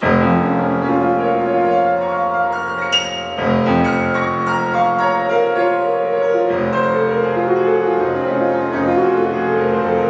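Acoustic jazz quintet (tenor saxophone, trumpet, piano, double bass and drums) playing a bebop-style tune, starting right at the first beat. There is a sharp accent about three seconds in.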